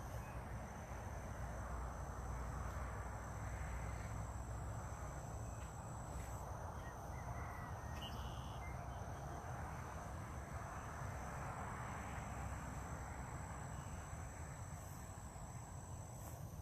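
Outdoor dawn ambience: insects trilling in two steady high tones over a low rumble, with a couple of faint brief bird chirps. The higher trill drops out near the end.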